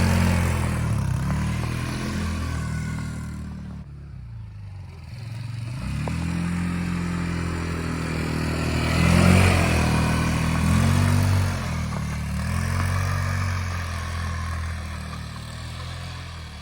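Car engine revving up and falling back several times, its pitch rising and dropping in repeated swells, with the sound broken by a couple of abrupt cuts.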